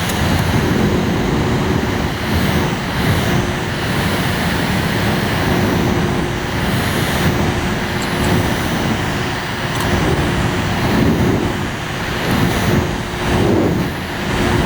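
A mini air conditioner's fan running, with air rushing loudly and buffeting the microphone over a steady motor hum.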